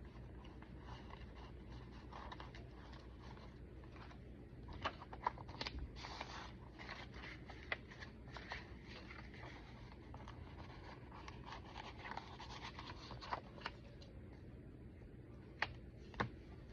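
Soft rustling and scraping of paper as the pages of a thick handmade junk journal are handled and turned, with a few sharp light clicks and taps in between.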